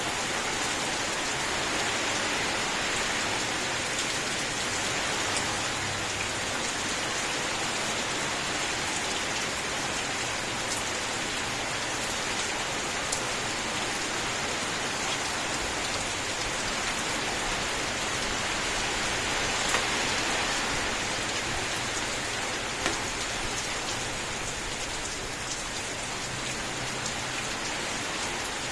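Steady heavy rain falling, a dense even hiss with occasional sharper drop ticks.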